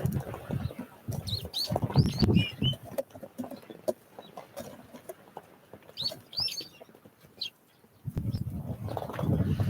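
Small wild birds at a feeder: wings fluttering in short bouts as they come and go, with clusters of short, high chirps twice.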